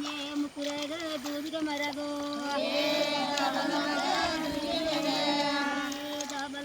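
Group of women singing a Tulu paddana (sandhi) folk song together, a paddy-planting work song, with several voices weaving over a held note.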